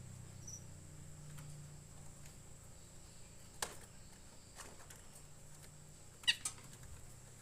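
A pet bird gives a quick pair of high, sweeping chirps near the end, over a faint low hum; a single sharp click comes a little after the middle.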